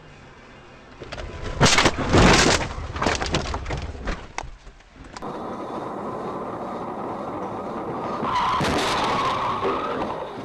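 A car collision: loud crashing impacts about a second and a half in, followed by a rattle of smaller knocks. After a cut, a car's steady road noise grows louder, with tyres skidding and a few more knocks near the end.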